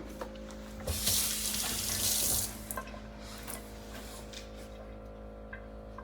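Potato water streaming and splashing into a bowl as grated potato is wrung out in a cheesecloth, a rush lasting about a second and a half, followed by a few small drips and clicks.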